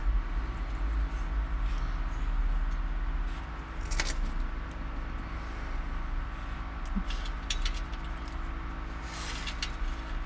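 A few short metallic clicks and clinks from a bolt and exhaust flange hardware being fitted by hand, over a steady low hum.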